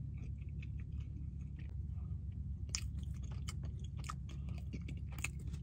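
A person chewing food close to the microphone, with scattered short wet clicks and crunchy crackles of the mouth working, over a low steady hum.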